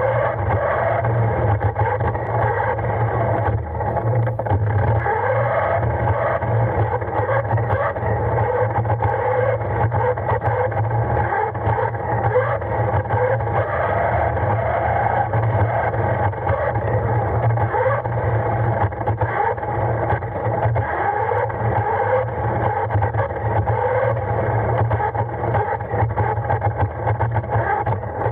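Radio-controlled car driving, picked up by a camera mounted on it: the steady hum and whine of its motor and gears with rolling wheel noise, the pitch rising briefly now and then as it speeds up.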